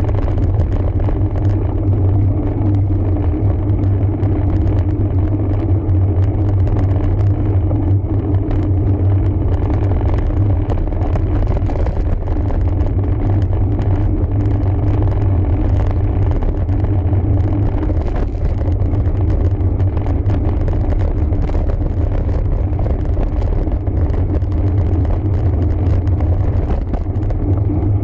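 Steady wind rumble and tyre noise on the microphone of a camera mounted on a road bike being ridden, heavy and low, with no breaks.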